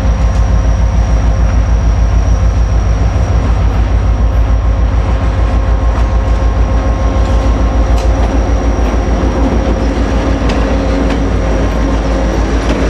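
EMD diesel locomotive running, a loud steady low throb with a rapid pulse and a few sharp clicks in the second half.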